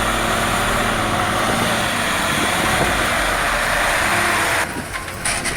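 Heavy vehicle's diesel engine running hard at high throttle, a loud steady drone. It breaks off abruptly about four and a half seconds in to a quieter, different engine sound.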